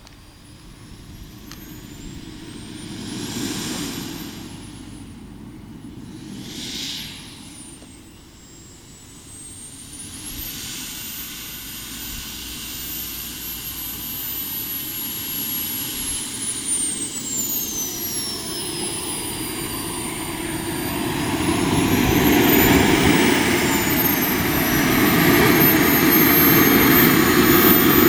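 Jet-Italia Kayman 190 model jet turbine of a radio-controlled jet in flight: a high turbine whine that sweeps up and down in pitch as the model passes. There are two short loud passes a few seconds in, and it grows steadily louder through the second half.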